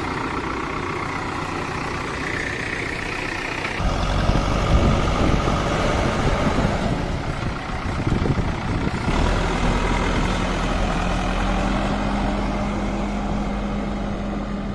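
Diesel tractor engines running, with no speech. The sound changes abruptly twice, about four and nine seconds in, and the last stretch carries a steady hum.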